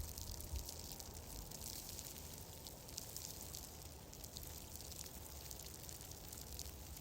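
Ambience soundscape: a steady soft hiss dotted with many small, irregular crackles or ticks, over a low rumble.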